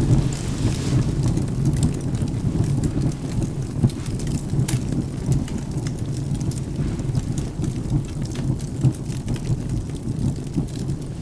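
Rain with a steady low rumble of thunder, and scattered sharp crackles from burning firewood in a fireplace.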